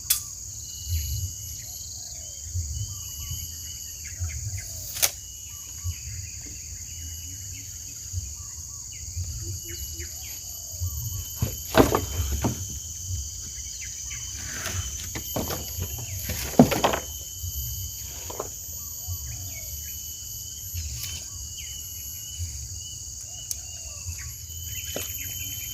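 Steady high-pitched insect drone, like crickets or cicadas, with scattered knocks and thuds from hand building work, and a few louder clattering knocks near the middle.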